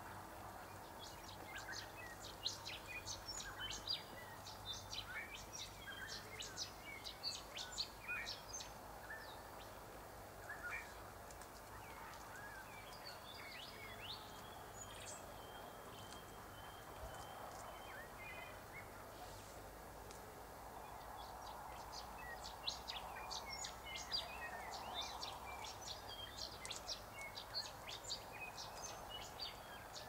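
Birds chirping: rapid runs of short, high chirps, busy near the start and again in the second half, with a thin, steady trill in the quieter stretch between, over faint outdoor background noise.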